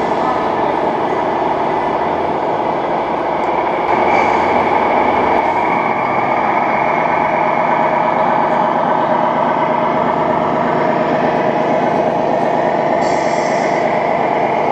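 1:14 scale RC truck running with a loud, steady mechanical drone, a little louder from about four seconds in.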